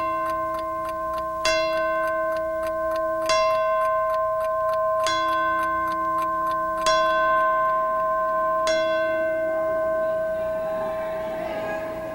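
A chiming clock striking slowly: five evenly spaced bell strikes about two seconds apart, each left ringing into the next, over a faint, quick ticking.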